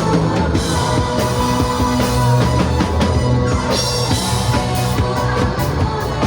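Band playing an instrumental passage in a rock style, sustained instrument notes over a drum kit keeping a steady beat, with no singing.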